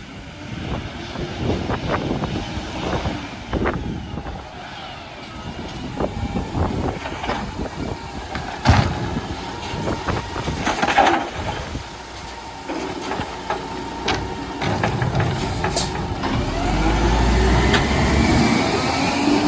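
Garbage truck working: engine running with scattered knocks and clanks and a hiss like an air brake, under a haze of wind noise. Towards the end the engine sound grows heavier, with a rising whine.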